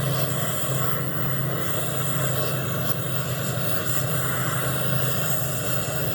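A machine running steadily: an even low hum with a wash of noise over it.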